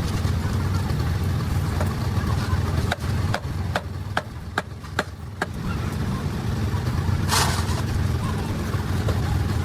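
Diesel engine running steadily, easing off briefly a few seconds in while a quick series of sharp clicks is heard, then a short hiss of air about seven seconds in.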